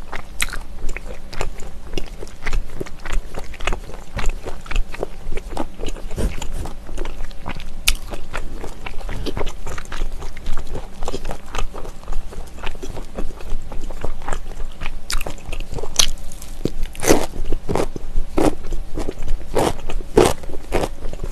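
Close-miked eating sounds from smoked pork belly and ponytail radish kimchi: a steady run of wet chewing and small clicks, turning into louder crunching bites about two-thirds of the way in.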